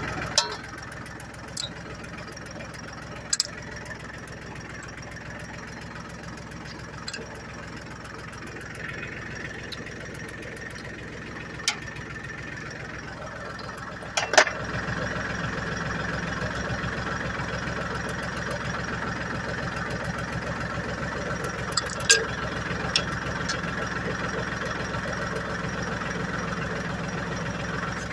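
Ford 1720 compact tractor's three-cylinder diesel engine idling steadily, with several sharp knocks over it. About halfway through, the engine sound steps up louder and stays there.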